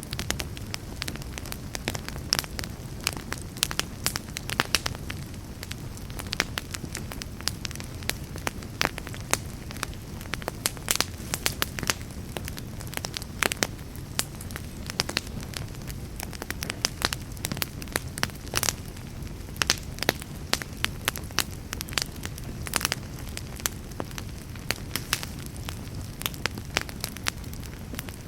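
Fire burning in a fireplace: a steady low rumble of flames with many irregular sharp crackles and pops throughout.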